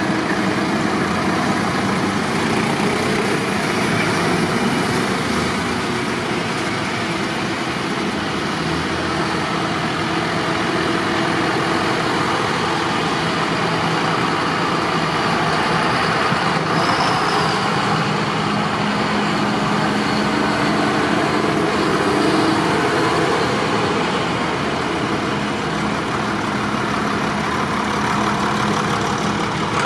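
Tractor engines running steadily, with engine tones of different pitch coming and going.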